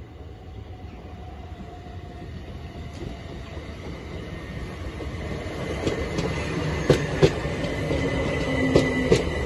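Southern multiple-unit passenger train approaching and running past along the platform, its rumble growing louder as it nears, with sharp clicks of the wheels over rail joints in the second half.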